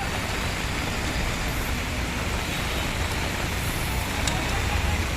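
Steady traffic noise on a rain-soaked road: a continuous hiss with a low engine rumble beneath it.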